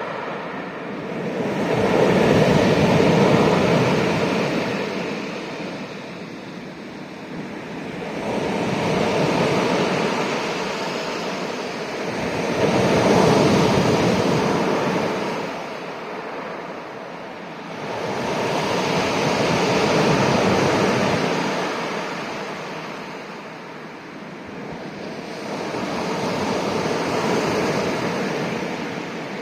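Sea waves surging and receding in slow swells, about five of them, each rising to a peak and fading over several seconds.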